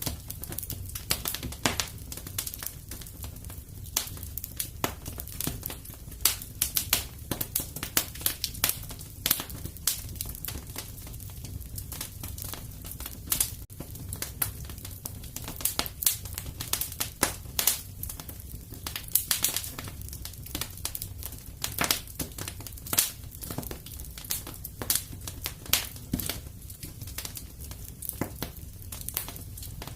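Fire crackling in a fireplace: frequent irregular sharp pops and snaps over a low steady rumble.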